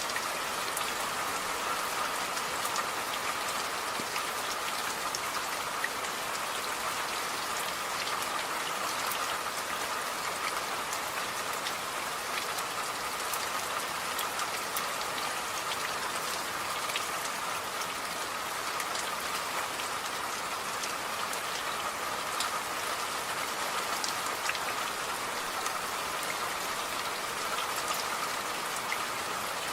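Steady rain falling, with a continuous hiss and scattered individual drop ticks.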